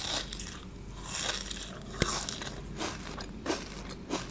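Close-miked biting and chewing of a Dubai chewy cookie, its crisp kataifi-and-pistachio filling crackling between the teeth, with one sharp crunch about two seconds in.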